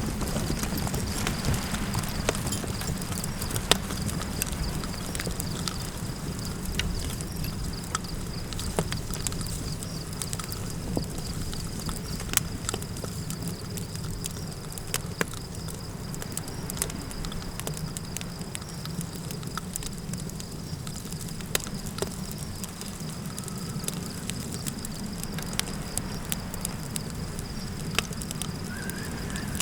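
Campfire crackling, with irregular sharp pops and snaps over a steady low rumble of wind.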